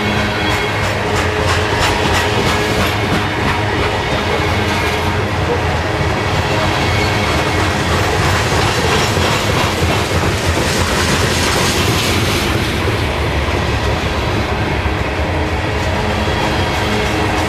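Manifest freight train rolling past close by, a steady rumble with steel wheels clacking over the rail joints in repeated runs of clicks.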